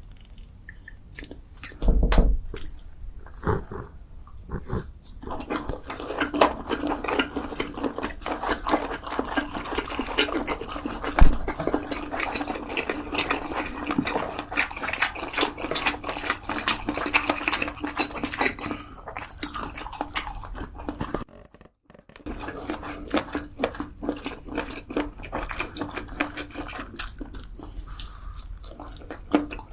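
A person eating: wet chewing and slurping of food in a dense run of small crackling, smacking sounds, with a couple of sharper knocks about 2 and 11 seconds in and a short break a little past 20 seconds.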